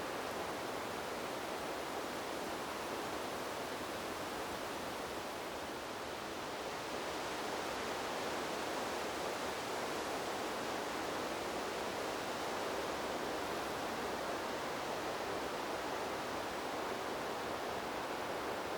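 Wind blowing through trees: a steady, even rushing hiss that eases a little about five seconds in, then swells back up and holds.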